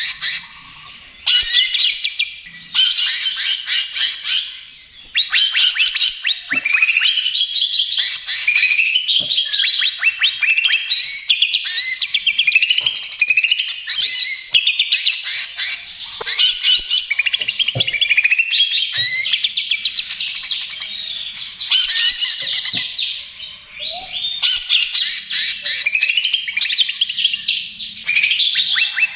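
Cucak ijo (greater green leafbird) singing in a fast, almost unbroken stream of chattering trills and gliding whistled notes, with only brief pauses.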